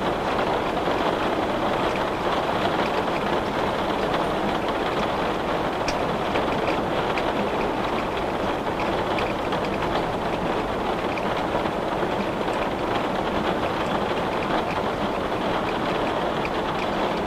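Steady rain falling against a window, an even hiss with scattered small drop ticks throughout.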